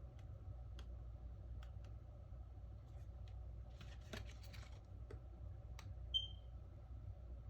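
Faint clicks and a short scratchy scrape of small repair tools prying at a smartphone's glued glass, over a steady low hum. A brief high chirp sounds a little after six seconds in.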